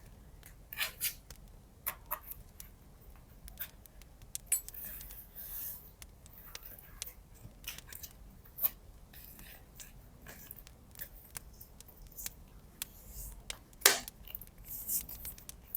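Close-up paper-crafting sounds: scissors snipping and clicking now and then, with brief paper rustles. One sharp snip about fourteen seconds in is the loudest.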